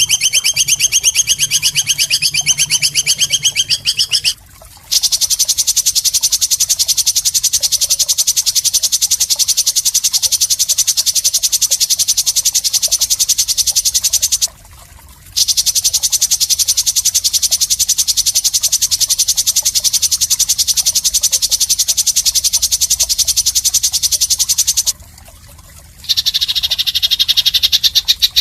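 Masteran recording of a rapid, high-pitched pulsing trill, played in long runs of about ten seconds with short breaks. Near the end it changes to a different trill with more separate pitch bands.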